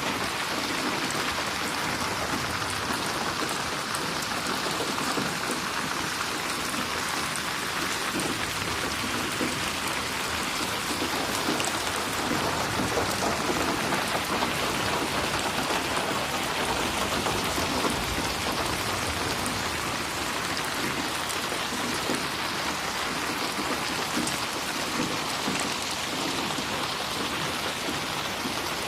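Steady rain falling and splashing on a surface, a dense even patter of drops with no thunder.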